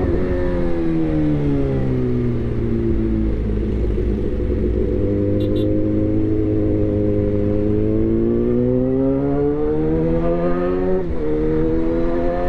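Suzuki GSX-R1000 inline-four engine through a replica SC-Project aftermarket exhaust. The revs fall away as the bike slows, hang low for a few seconds, then climb again under acceleration, with a quick upshift about eleven seconds in.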